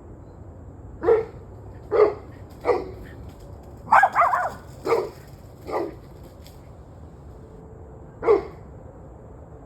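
A dog barking in an irregular run of about seven barks, with a quick double bark in the middle and a last bark after a short pause, over steady low background noise.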